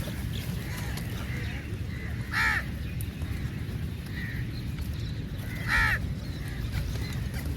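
Crows cawing: two loud, short caws about two and a half and six seconds in, with fainter calls in between, over a steady low rumble.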